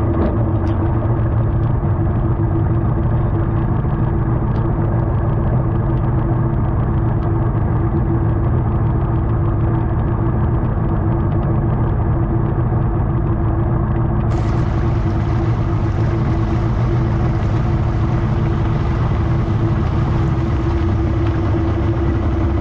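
Bass boat's outboard motor running steadily, a constant droning hum over a low rumble.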